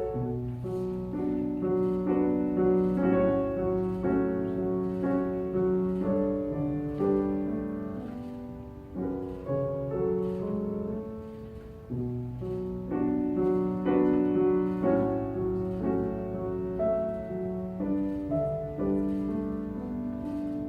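Piano playing an instrumental passage on its own, a run of repeated chords and broken-chord figures, between sung sections of a choral piece.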